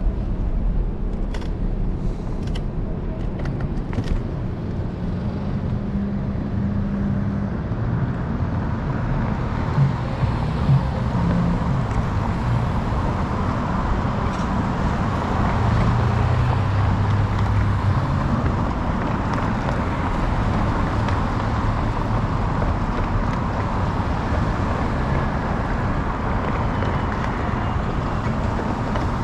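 Steady city street traffic noise with low road rumble, heard from a moving electric scooter, with a few light clicks in the first few seconds.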